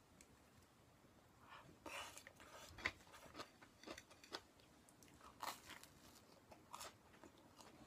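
Faint, close-up eating sounds: chewing, with a string of short crisp crunches as slices of toast are bitten and chewed.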